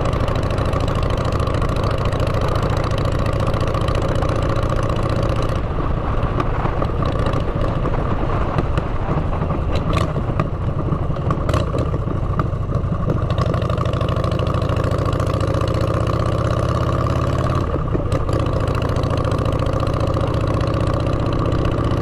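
Motorcycle engine running through aftermarket exhaust pipes while riding. The note eases off about six seconds in, then climbs with the throttle from about fourteen seconds, with two sharp clicks in between.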